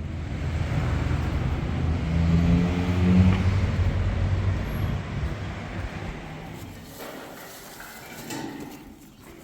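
A motor vehicle engine passing by, growing louder to a peak about three seconds in, then fading away.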